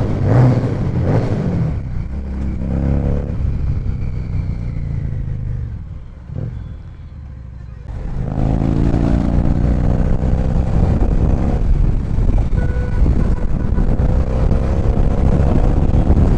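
Harley-Davidson Street 750's V-twin engine heard while riding, revving and then easing off to a quieter lull about six seconds in. About two seconds later it picks up again, its pitch rising as the bike accelerates.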